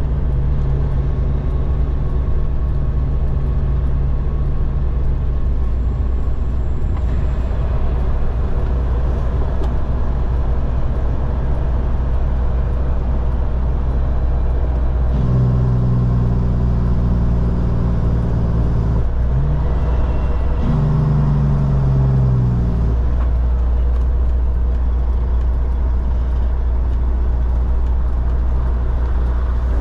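Diesel engine of a road-train prime mover running under way over a deep, steady road rumble. From about halfway the engine note grows strong for several seconds, breaks off briefly, then comes back and falls in pitch before it fades.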